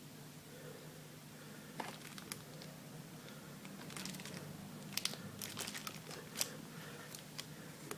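Faint crinkling and clicking of plastic being handled while water is drained into a container, in scattered bursts that are densest past the middle.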